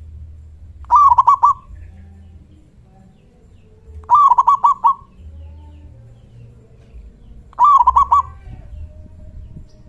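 Zebra dove (perkutut) cooing: three calls about three seconds apart, each a quick run of five or six short coos at much the same pitch.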